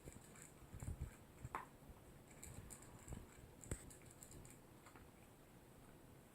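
A toy poodle eating dry kibble: faint, irregular crunches and clicks.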